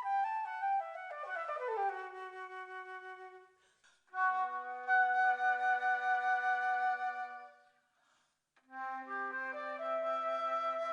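Flute ensemble playing in several parts: falling runs of notes that fade away, a sustained chord, a brief pause, then the parts start moving again about nine seconds in.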